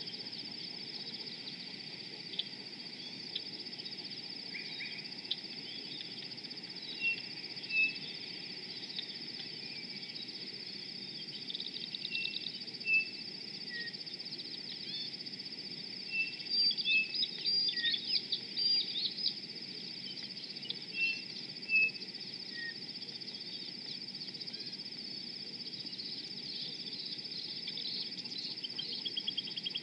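Birds chirping and calling in short scattered notes, most busily a little past the middle, over a steady high-pitched chorus of small animals.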